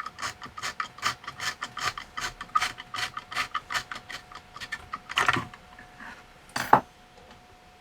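Computer keyboard keys being tapped quickly, about five clicks a second, for the first four seconds or so, then two louder scraping clatters, the second one sharper, over a faint steady high whine.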